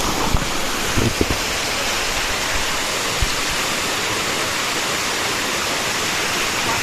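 Large waterfall pouring down a rock face: a steady, even rush of falling water. A few soft low knocks sound about a second in and again near the middle.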